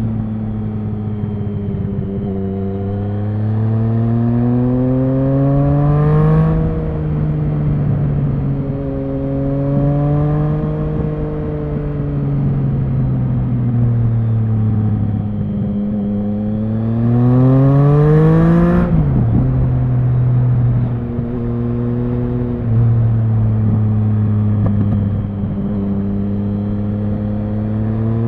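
Triumph Speed Triple 1050's inline three-cylinder engine pulling through city riding: the revs climb twice, each time dropping sharply at the peak, about six and nineteen seconds in, then it runs at steadier, lower revs with small changes in pitch.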